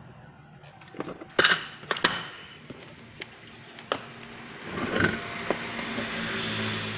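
Several sharp clicks and knocks of parts and tools being handled on a workbench, then a steady mechanical noise over the last couple of seconds.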